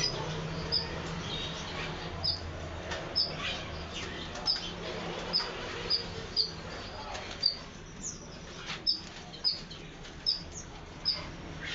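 Kerak basi (reed warbler) calling a long series of short, high chirps, each dropping quickly in pitch, about one or two a second, over a faint low hum.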